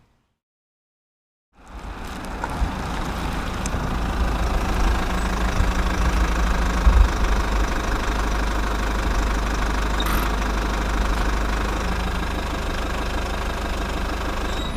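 A motor running steadily with a strong low rumble, cutting in after about a second and a half of silence.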